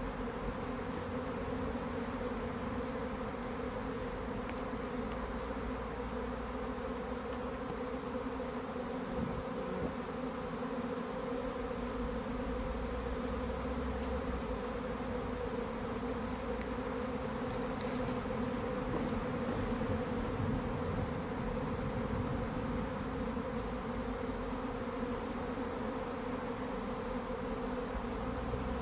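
Honeybee colony buzzing around an opened hive, a steady hum, with a few faint ticks; the beekeeper thinks the bees are agitated from the hive being open too long.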